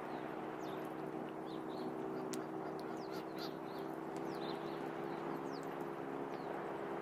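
Birds giving short, repeated chirps over a steady low drone and an even outdoor hiss.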